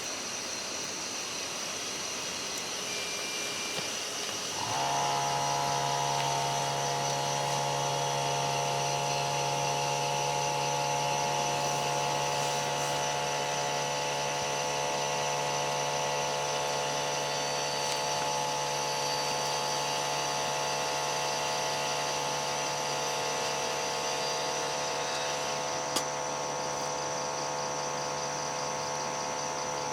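A small motor starts about five seconds in and runs with a steady, even hum, over a continuous high-pitched drone.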